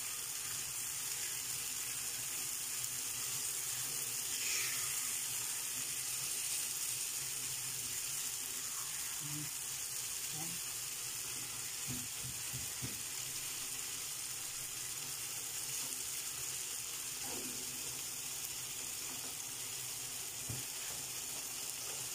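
Chilli con carne (minced beef in tomato sauce) sizzling steadily in a frying pan, with a few soft knocks from the spatula stirring it.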